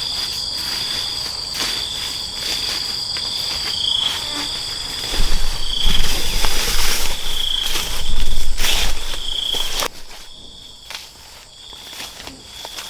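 Insects shrilling in a steady high-pitched chorus that swells and fades every second or so. A louder noisy stretch with clicks and a low rumble runs through the middle and cuts off suddenly about ten seconds in.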